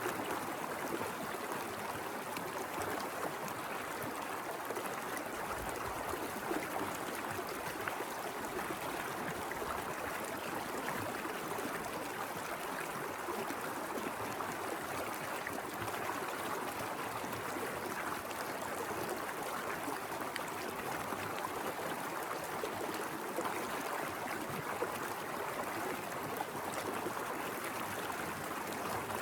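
Small mountain river flowing over rocks: a steady rush of water with a burbling, trickling texture.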